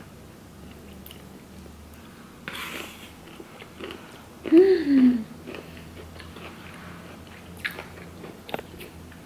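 A woman chewing and biting food close to the microphone. About halfway through she makes a short hummed vocal sound that falls in pitch, and near the end there are a few sharp clicks as the camera is handled.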